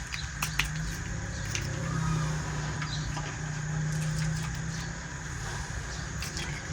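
Steady low hum under a constant hiss, with a few scattered light clicks.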